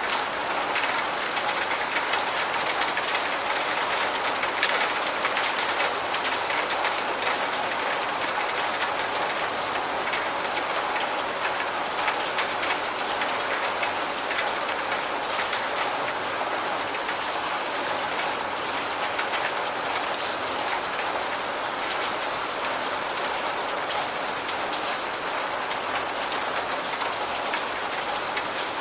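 Steady rain, a dense even hiss dotted with many small drop ticks.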